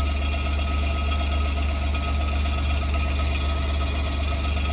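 Suzuki Wagon R's small three-cylinder engine idling steadily with a fast, light metallic rattle (a 'karakara' sound) that comes from the exhaust silencer, a noise that occurs only at idle.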